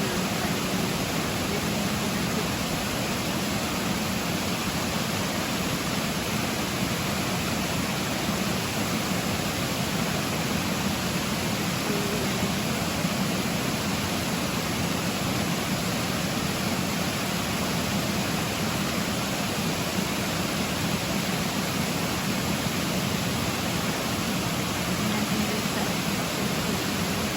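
Steady rushing of running water, an even hiss with no change in level.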